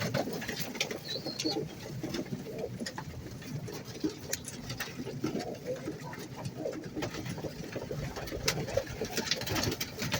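A flock of domestic pigeons cooing in a loft, many low overlapping coos, with scattered sharp clicks among them.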